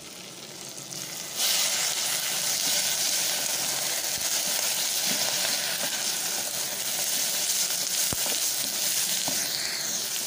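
Dried omena fish and tomatoes sizzling as they fry in an aluminium pot while being stirred with a wooden spoon. The sizzling jumps louder about a second and a half in and then holds steady, with a few light knocks.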